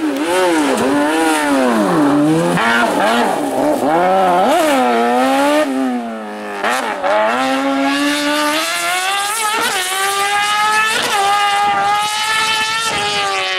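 Rally car engine revving hard. Its pitch swings up and down over the first half as the car brakes, shifts down and accelerates through the bends, then holds high at full throttle, dipping briefly at each upshift.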